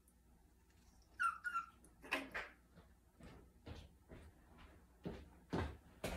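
A pet parrot gives a couple of short squeaky calls about a second in, followed by scattered knocks, thumps and rustling from objects being handled.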